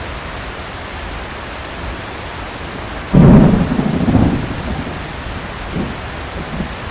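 Heavy rain falling steadily, then a sudden thunderclap about three seconds in that rumbles and dies away over the next couple of seconds.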